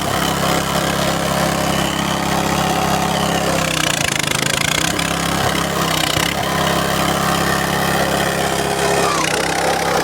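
Cassava grinding machine running steadily with a continuous mechanical hum, grinding tapioca.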